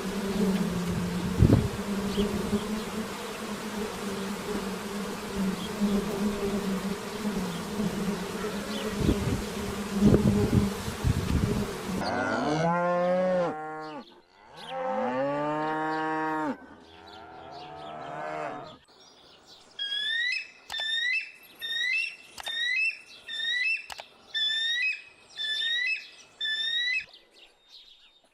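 A steady buzzing of a flying insect such as a bee or fly, with a few knocks, for about twelve seconds. It is followed by a cow mooing twice in long, falling calls. After a short pause comes a run of about a dozen short, upward-sweeping chirps at an even pace.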